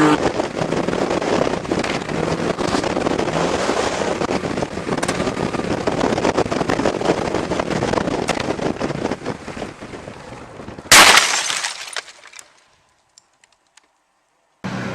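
Vehicle crash noise: a long stretch of crackling, scraping noise, then one loud bang about eleven seconds in that dies away quickly, followed by near silence.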